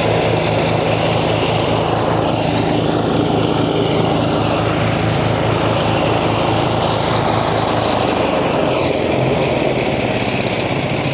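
Engine-driven rice thresher running steadily, its small engine pulsing rapidly under the noise of the threshing drum, with the engine note changing and thinning in the last few seconds as the last rice is threshed and the machine is about to be shut off.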